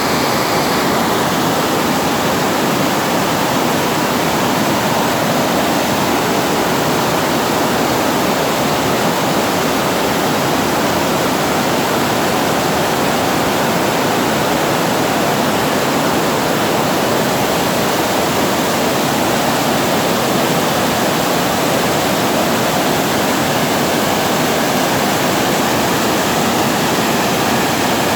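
Water pouring over a reservoir weir and falling below it: a steady, unbroken rushing.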